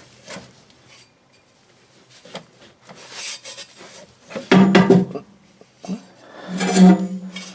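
Drive shaft slip yoke being worked and slid out of the transmission's tail housing: metal rubbing and scraping with scattered knocks. Two louder drawn-out tones come about halfway through and again near the end.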